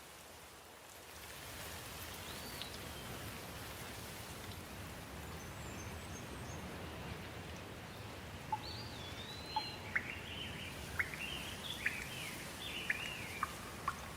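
Steady rain falling, a little louder after the first second or so, with birds calling through it; from about eight seconds in, a run of short sharp chirps comes every half second or so.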